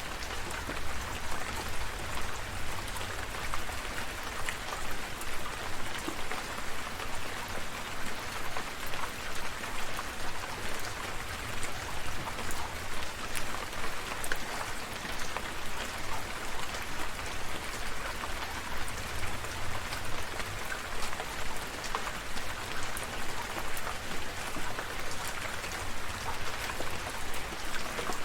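Steady rain falling, a dense patter of individual drops over an even hiss, with a low rumble underneath.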